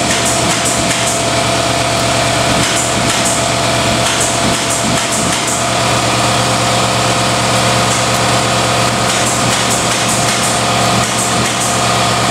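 A steady mechanical drone, like a motor running continuously, with a constant hum that does not change.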